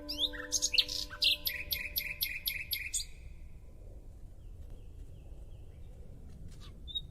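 Common nightingale singing: a phrase of rapid, repeated sharp notes, about five a second, then a pause with a faint buzzy note and a single call near the end.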